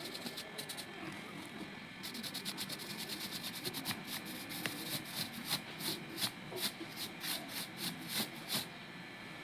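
Rhythmic hand strokes rubbing or brushing over the surface of a small model: a quick run of short strokes about two seconds in, then slower, stronger strokes, two or three a second.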